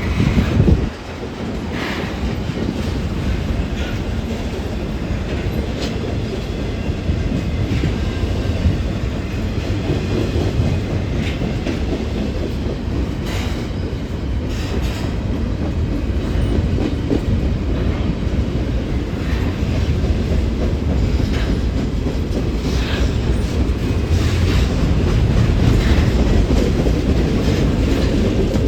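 CN intermodal freight train cars rolling past: a steady low rumble with wheel clicks over the rail joints every second or two. A brief loud burst comes in the first second.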